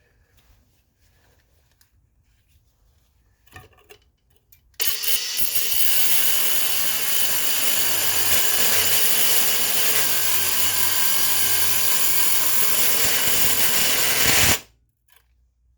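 Cordless angle grinder with a fresh cutoff wheel cutting into steel suspension parts: a loud, steady grinding that starts about five seconds in, runs about ten seconds, and cuts off suddenly near the end. A few faint handling clicks come before it.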